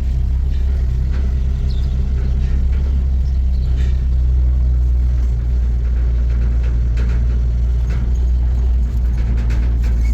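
A motor vehicle's engine running with a steady low drone, with a few faint clicks over it in the second half.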